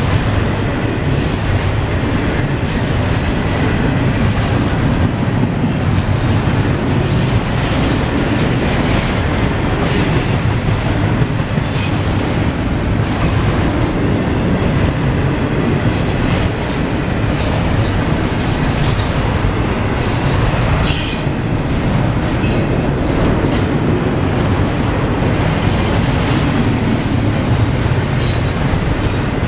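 Norfolk Southern double-stack intermodal well cars rolling past, a steady loud rumble of steel wheels on rail, broken by short, scattered high-pitched wheel squeals.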